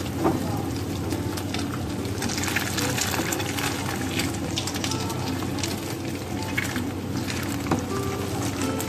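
Egg frying in oil in a nonstick pan, a steady sizzle, with a couple of sharp knocks of the spatula against the pan, just after the start and near the end.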